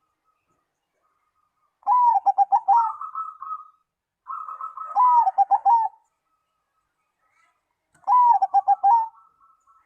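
Zebra dove (perkutut) cooing: three phrases, each a string of rapid, bubbling coo notes, with pauses between them.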